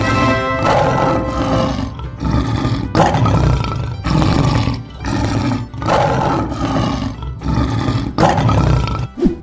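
Lion roaring: a run of loud, short roars, about one a second.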